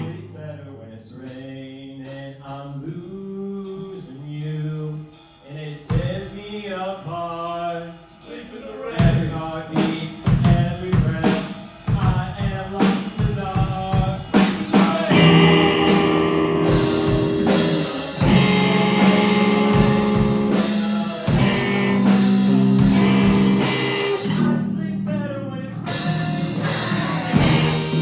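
Live rock band playing an instrumental section: a quieter melodic guitar passage, then the drum kit and full band come in about nine seconds in and play on loudly.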